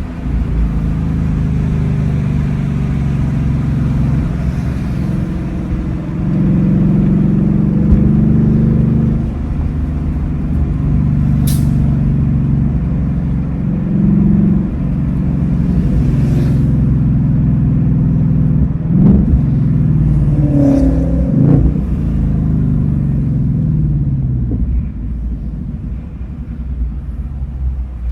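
2026 Ford Mustang GT's 5.0-litre Coyote V8 running while driving, its note rising and falling with the throttle. It gets louder about a quarter of the way in and again near the middle, with quick pitch changes about two-thirds through. A brief sharp click comes about eleven seconds in.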